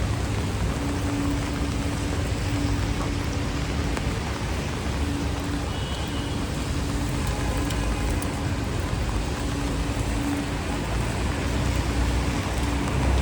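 Rain falling on a wet city street with motor traffic running, under a steady low hum that breaks off now and then.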